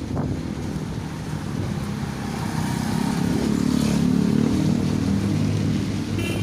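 A motor vehicle's engine running, growing louder for a few seconds in the middle, over a steady hiss.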